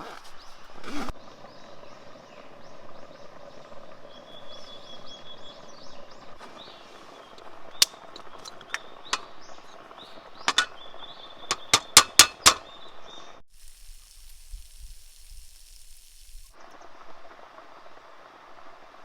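Outdoor ambience with a faint steady high tone and a scatter of sharp clicks and knocks, loudest in a quick run of five about twelve seconds in. Partway through, a steady hiss over a low rumble runs for about three seconds and then stops.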